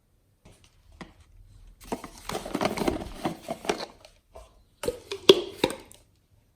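Hands working glossy slime: a dense sticky crackling of many small clicks for about two seconds, then a few sharp pops and clicks near the end.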